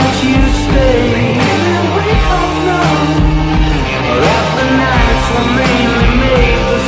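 Rock music from a band recording, with drums on a regular beat, a low bass line, and wordless sung notes that glide in pitch.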